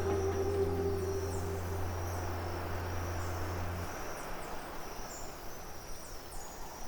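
Forest insect chorus: a steady hiss with short high chirps, under the last held chord of soft ambient music, which ends about four seconds in.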